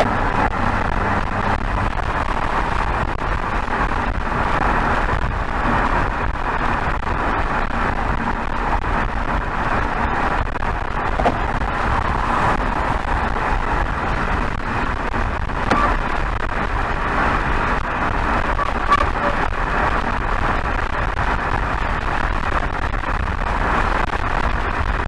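Exhaust of a BMW 320xd G21's 2.0-litre four-cylinder turbodiesel (B47D20), picked up right beside the tailpipe at a steady highway cruise. Its low drone is mixed with a steady rush of wind and road noise, with no revving up or down.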